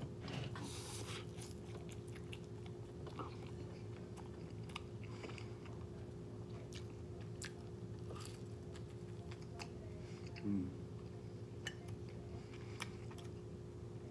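Close-miked chewing and biting: a man eating forkfuls of rice with scrambled egg and kimchi and bites of a soft flatbread, with many small wet mouth clicks. A short low hum from him about ten seconds in.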